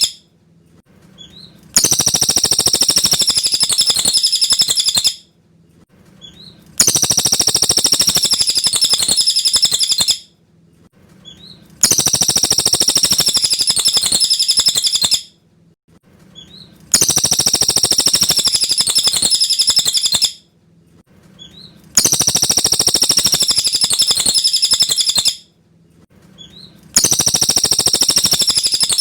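Cililin bird singing: a high, dense chattering song in bursts of about three seconds. Nearly the same burst comes back about every five seconds and each one cuts off abruptly, like a looped recording.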